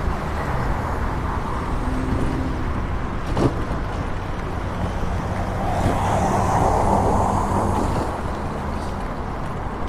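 Steady wind and road rumble from riding an electric scooter along a road, swelling louder from about six to eight seconds in, with one short knock about three and a half seconds in.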